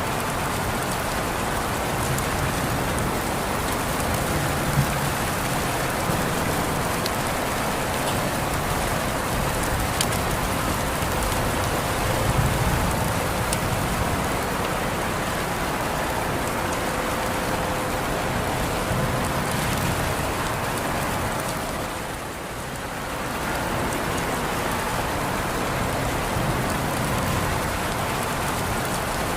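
Steady rain falling, an even wash of drops with a few louder single drops, easing briefly about three-quarters of the way through.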